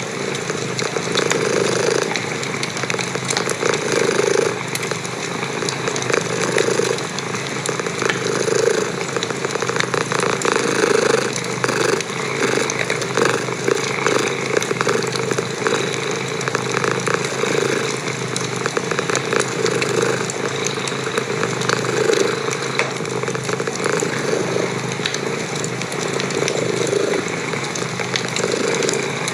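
A domestic cat purring close up, the purr swelling and fading with each breath, over the crackling and popping of a wood fire in a fireplace.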